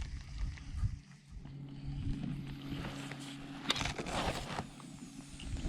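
A motorboat engine running steadily in the distance, a low even hum across the lake, with wind rumble on the microphone and a short noisy burst about four seconds in.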